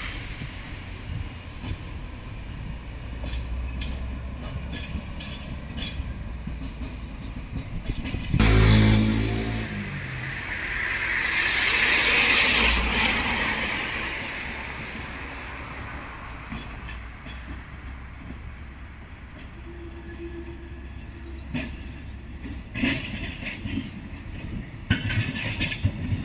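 Train moving through a railway station: a steady low rumble with a loud burst about eight seconds in, then a rush of rail noise that swells and fades, and a run of sharp clicks of wheels over rail joints near the end.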